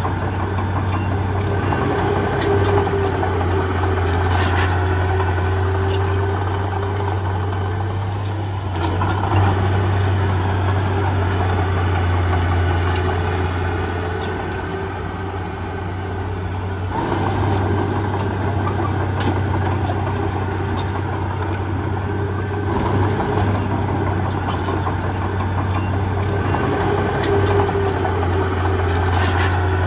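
Heavy diesel engine of earthmoving machinery running steadily with a deep drone. A faint whine rises and falls above it, and the level dips slightly twice.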